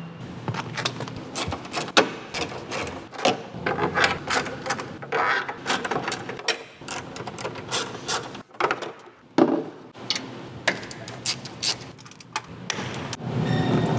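Hand tools, a ratchet among them, clicking and knocking irregularly while working on a Polaris RZR's front differential for a fluid change.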